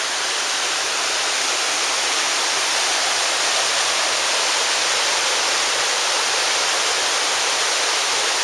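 Waterfall's water falling and splashing, a steady rushing hiss with no change in level.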